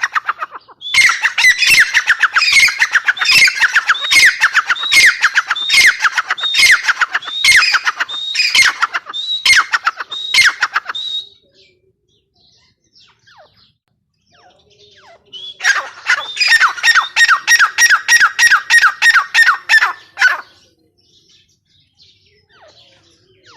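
Grey francolin calling: two long bouts of loud, harsh, rapidly repeated notes, the second faster and denser than the first, with a pause of a few seconds between them.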